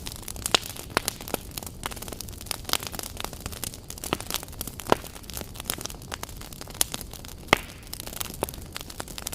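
Wood campfire crackling: irregular sharp pops and snaps of burning logs over a steady low hiss, with two louder pops about five and seven and a half seconds in.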